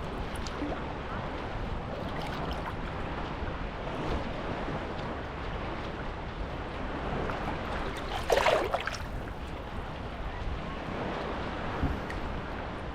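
Sea waves washing onto the beach in a steady rush, with a louder burst about eight seconds in.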